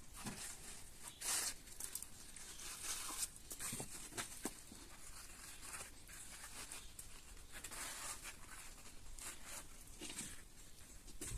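Faint, irregular scraping and rustling with a few light clicks and knocks, the sound of hands working with materials.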